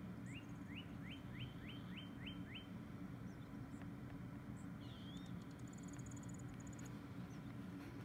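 A songbird sings a quickening series of about nine short rising notes over the first couple of seconds. It is followed by a single wavering note and a short, fast, high trill, over a steady low background rumble.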